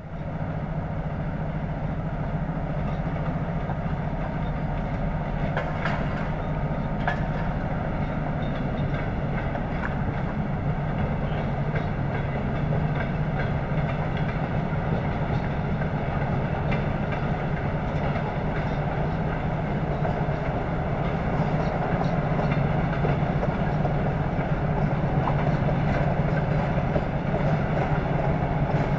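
Passenger train hauled by a ChS2K electric locomotive rolling slowly into a station. The coach wheels click over rail joints and switches above a steady low hum.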